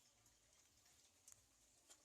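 Near silence: faint background hiss with two faint short clicks, one a little past a second in and one near the end.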